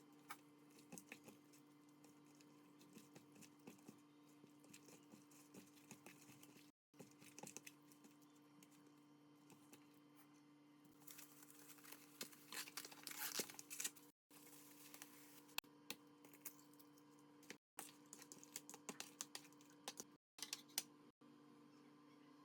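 Faint kitchen preparation handling sounds: scattered small clicks and taps, with a busier stretch of crinkling and rustling around the middle, over a steady low electrical hum. The sound drops out briefly several times.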